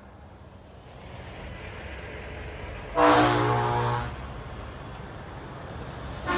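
Truck engines rumble, growing louder as trucks approach. About three seconds in, a truck horn sounds one loud blast lasting about a second, and a short second toot starts right at the end.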